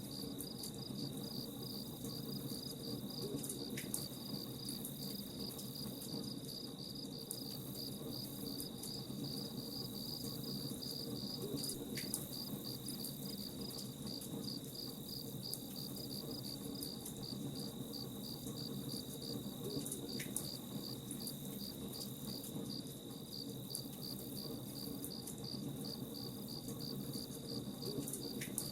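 Crickets chirping steadily in a rapid, even pulse over a low, steady background with faint scattered crackles, typical of a campfire burning.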